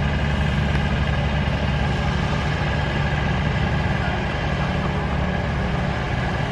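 Tractor engine idling steadily with a deep, even low-pitched rumble.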